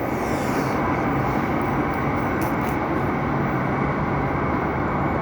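Madrid Metro train running through the station: a steady, loud rumble of wheels and motors, with a short falling high whine at the start and a couple of brief clicks about two and a half seconds in.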